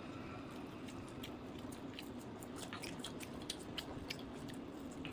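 A person biting and chewing roasted chicken close to the microphone, with scattered short wet mouth clicks over a steady low hum.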